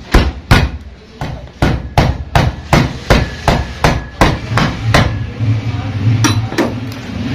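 Hammer blows on metal in a steady run, about two or three a second, as the pulley set is tapped onto a car AC compressor; the blows stop about five seconds in, and two more come near the end. A low steady hum runs underneath.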